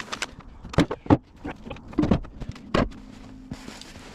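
A string of sharp, irregular metallic knocks and clicks, as of a car wheel and its lug bolts and tools being handled while the wheel is refitted. A low steady hum comes in about three seconds in.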